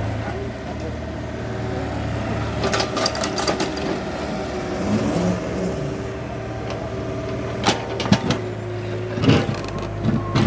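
Excavator's diesel engine running steadily, with sharp clanks and knocks around three seconds in and again near the end.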